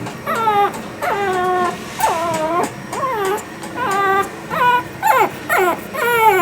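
Shih Tzu puppy whining over and over: about nine high-pitched whimpers in a row, each sliding down in pitch.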